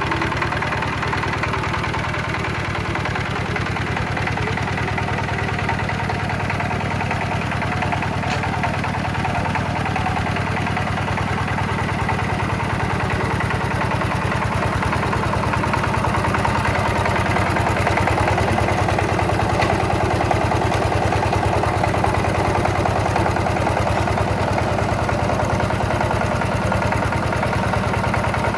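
A restored farm tiller's engine running steadily at idle, with an even firing rhythm; it gets a little louder about halfway through.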